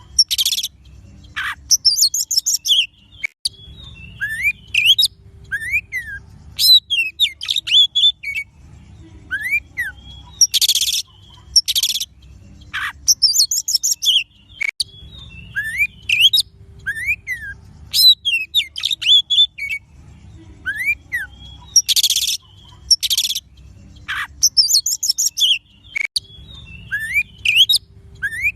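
Oriental magpie-robin (kacer) song used as a lure: quick varied whistles, rising and falling slurred notes and short harsh rasping bursts. The same phrase sequence comes round about every eleven seconds, a looped recording, over a faint low rumble.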